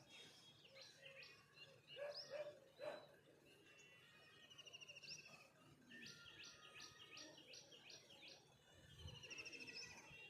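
Faint songbird chirps and song from several birds: scattered short chirps, a quick run of about six notes, and falling trills.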